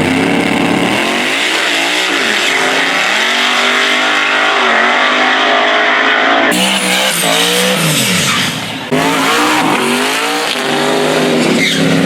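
Drag racing car engines running hard at high revs, their pitch rising and falling. The sound changes abruptly about six and a half seconds in and again about nine seconds in.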